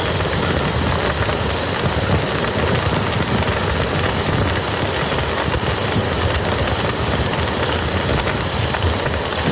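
Campfire crackling and popping over the steady rush of a flowing river.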